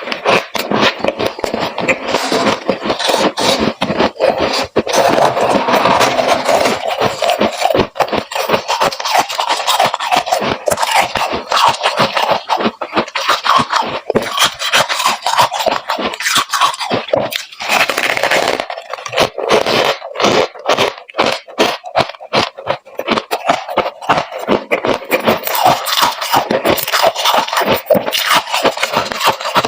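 Freezer frost crunching and scraping close to the microphone: a loud, dense, unbroken run of crisp crackles and clicks from packed ice crystals.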